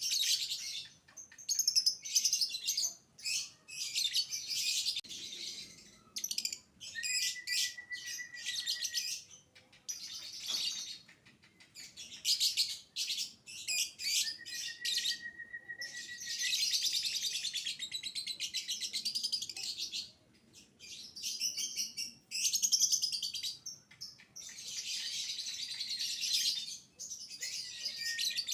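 Lovebird singing in rapid, high-pitched chattering trills that come in bursts of a second or several seconds, with two held whistle-like notes in the middle. This is the long 'biola'-style song of a lovebird in full voice ('gacor').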